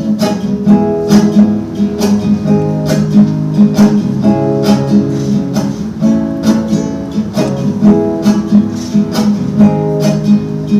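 Acoustic guitar strumming chords in a steady rhythm: an instrumental break between the verses of a song.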